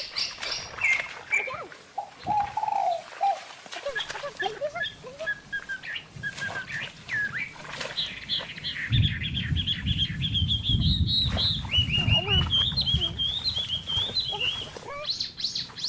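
A bird calling in quick runs of short chirps, with a few seconds of rapid wing-flapping in the middle as it struggles.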